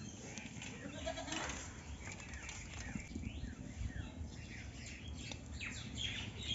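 Birds chirping in many short, falling calls, thickest in the second half, with a brief lower animal call about a second in.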